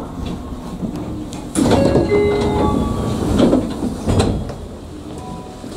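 Tokyu 9000 series train running on the rails. About one and a half seconds in the noise jumps up into a louder stretch of rumbling with several high squealing tones and a few sharp knocks, which eases back after about three seconds.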